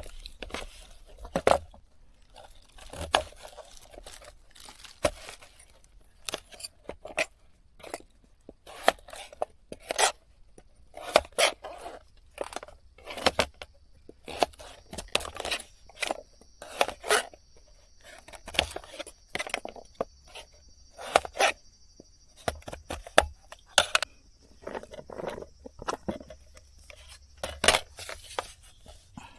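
Knife cutting curry ingredients on a cutting board: irregular sharp knocks and clicks, some in quick runs, with utensils clattering now and then. A faint steady high whine comes in about halfway through.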